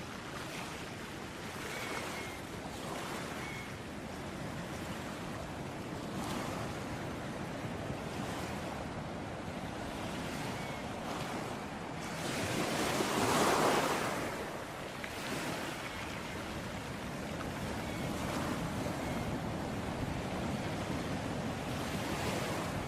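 Ocean waves washing onto a beach in a steady surf. One bigger wave swells and breaks about halfway through.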